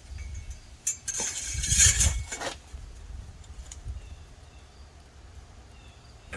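Light metallic clinks and handling noise, with a louder rush of noise about a second in that fades out by the middle.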